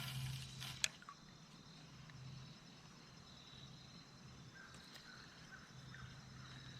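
Quiet riverside ambience from a kayak, with faint water sounds. It opens with a short splashing rush and a sharp click just under a second in.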